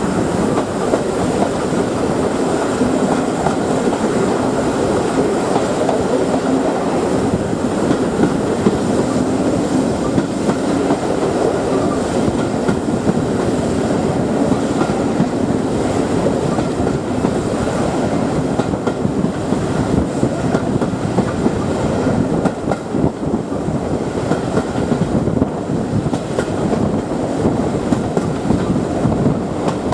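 Steam-hauled heritage train's coaches running along the track, heard from a carriage window: a steady, continuous noise of wheels on rail.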